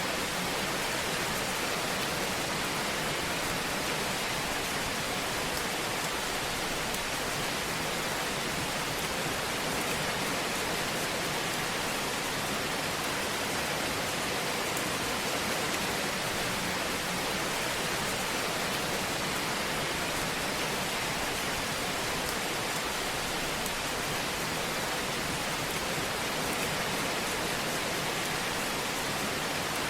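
Steady, even hiss of a wood fire burning in a fireplace.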